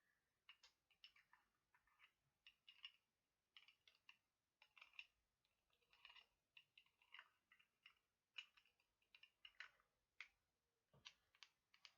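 Fingernails tapping and clicking on a lip balm container in irregular quick taps, several a second, for ASMR.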